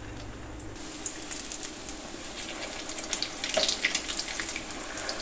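Egg-coated potato cutlets shallow-frying in ghee in a pan: a steady sizzle with crackling and popping that grows louder about three seconds in.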